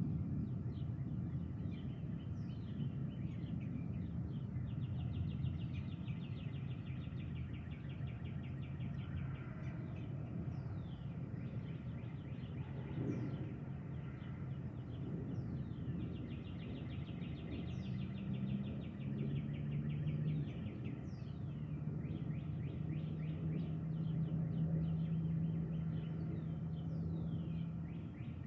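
Birds chirping and trilling outdoors over a steady low rumbling background, with a low steady hum joining about two-thirds of the way through.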